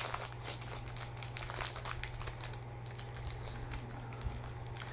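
Plastic granola-bar wrapper crinkling as it is handled, with quick dense crackles at first that thin out after a couple of seconds. A steady low hum lies underneath.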